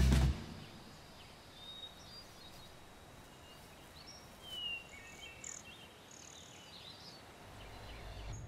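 A loud crash cuts off just after the start, giving way to quiet outdoor ambience with a few faint, short bird chirps.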